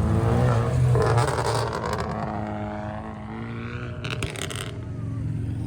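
A car's engine and exhaust passing by, loudest about a second in, its note gliding down in pitch as it goes away. A short burst of crackling comes about four seconds in.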